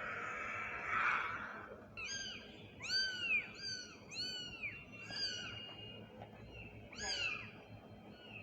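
Kitten meowing: a quick run of about six short, high-pitched meows, each rising and falling, then one more near the end. A brief rush of noise comes just before the meows.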